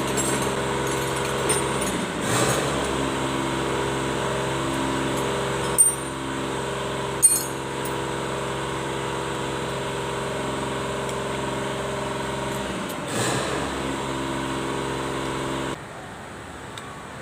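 Kubota D1462 three-cylinder diesel engine of a Sunshine L1-255 tractor running steadily, with two sharp metallic clinks about six and seven seconds in. The engine sound cuts off abruptly near the end.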